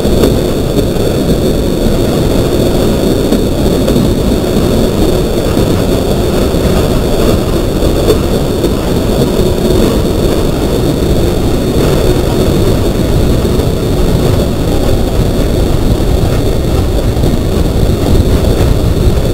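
Alishan Forest Railway train running, a loud, steady low rumble.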